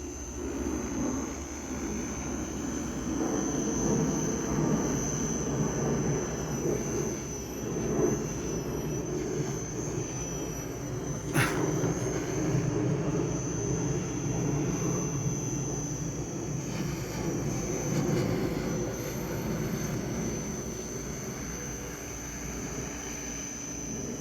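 SAB Goblin Raw 700 electric model helicopter in flight: a steady high whine over a fluttering rotor sound that swells and fades as it manoeuvres. A single sharp click comes about eleven seconds in.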